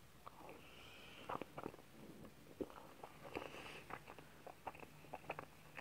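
Faint, wet mouth sounds of chewing a mouthful of soft chocolate cake with melted ice cream: scattered small smacks and clicks.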